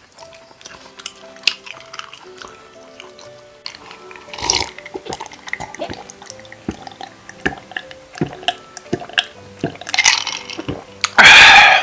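Close-miked eating: wet chewing and smacking mouth clicks, with a few louder bursts and one very loud half-second one near the end, over soft background music.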